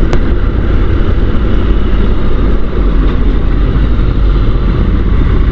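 Steady wind rush and road noise with a low engine drone, heard from inside a motorcycle helmet while riding at a constant speed.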